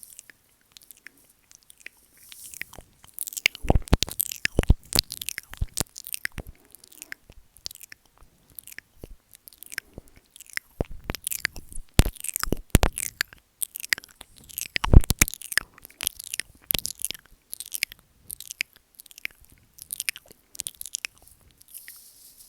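Close-miked wet mouth sounds, licking and nibbling on the microphone: a dense, irregular run of wet clicks and smacks. Heavier bumps come about four seconds in and again about fifteen seconds in.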